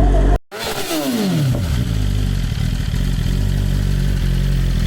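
A 2020 BMW S1000RR's inline-four engine through an Akrapovic Evolution exhaust: after a brief dropout, the revs fall away quickly over about a second and settle into a steady idle.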